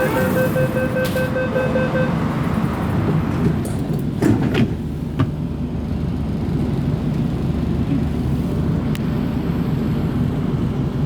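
Door-closing warning beeps of an MTR Tseung Kwan O line train, rapid and repeating, stop about two seconds in. About four seconds in there is a thud as the sliding doors shut, then the train's steady low rumble.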